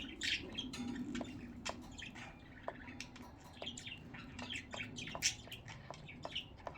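Budgerigars chattering and chirping together, a busy run of short squawks, warbles and clicks.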